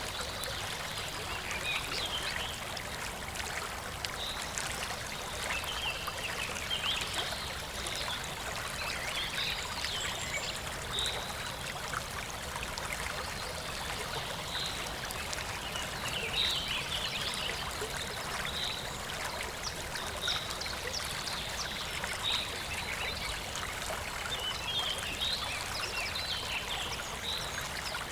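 Clear, shallow river water flowing and trickling steadily, with short high-pitched chirps recurring every second or two over it.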